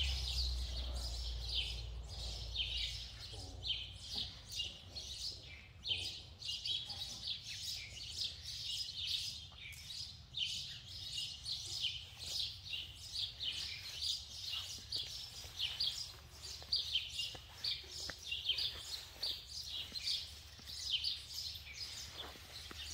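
Small birds chirping steadily, many short high calls a second overlapping, with a low rumble that fades away in the first few seconds.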